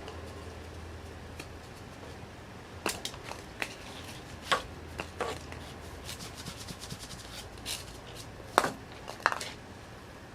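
Irregular sharp clicks and knocks of small hard objects being handled, over a steady low hum; the loudest knocks come about halfway through and again near the end.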